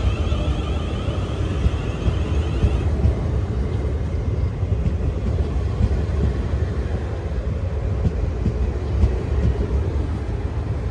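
Train running past with a steady low rumble. A high whine sounds over it and stops about three seconds in.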